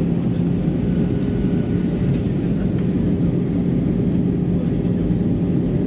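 Steady cabin noise inside an Airbus A320-214 in flight: a low, even roar of the CFM56-5B engines and the air rushing past, with a steady low hum.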